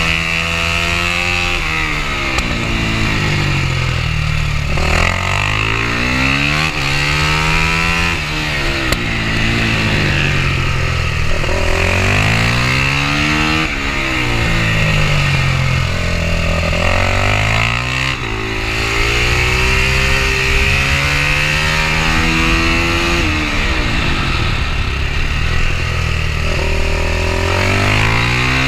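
Supermoto motorcycle engine on a track lap, revving up hard through the gears and then dropping off, over and over. The pitch climbs in steps and falls away every few seconds.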